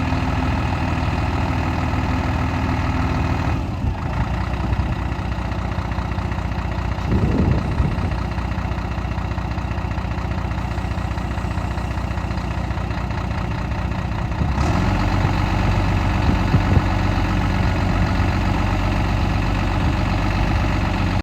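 Scania P124 truck's 420 hp inline-six diesel engine idling steadily. About seven seconds in the note briefly rises and falls, and from about fifteen seconds on it runs a little louder at a slightly changed pitch.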